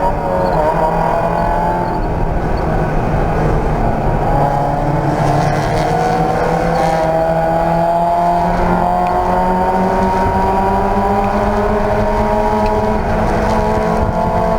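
Race car engine under hard acceleration, its pitch dropping briefly near the start and then climbing slowly and evenly for most of the time.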